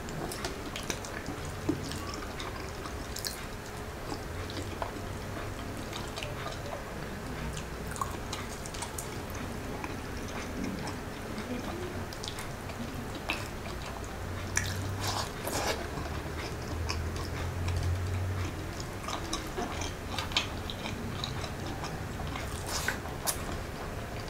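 Close-miked mouth sounds of a man chewing a mouthful of fried rice and siomai, with many small scattered clicks from the mouth and food.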